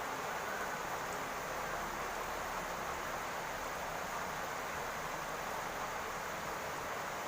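Steady rain falling on a roof, an even hiss without separate drops standing out.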